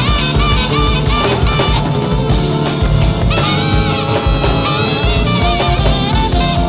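Live band playing an instrumental passage: a drum kit keeps a steady beat with bass drum and snare under held, wavering melody notes.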